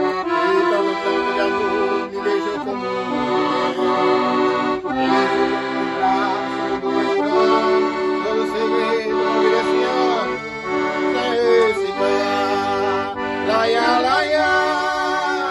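Accordion (sanfona) playing an instrumental forró pé de serra passage: a moving melody over held chords.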